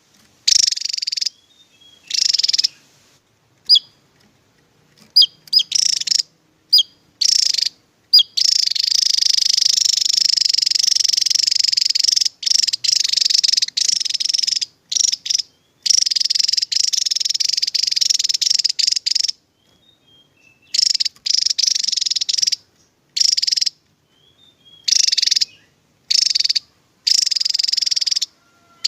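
Javan tesia singing high-pitched rapid trills in bursts that start and stop abruptly, with one unbroken run of about ten seconds in the middle.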